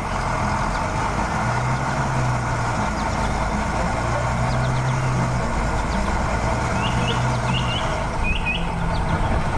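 Heavy vehicle engine running steadily, with a few short bird chirps in the last couple of seconds.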